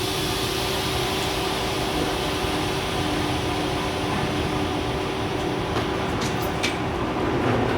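A TGV high-speed train making a steady rushing noise over a low, even hum, with a few faint clicks near the end.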